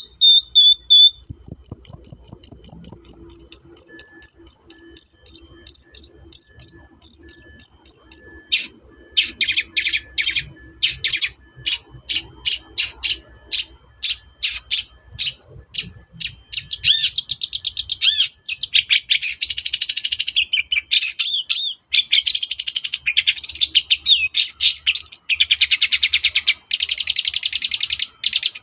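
Long-tailed shrike (cendet) in full, loud song. It opens with a long, very rapid trill that slides slowly down in pitch. Next comes a run of sharp single notes about two a second, and from about halfway it breaks into a dense, varied chattering warble.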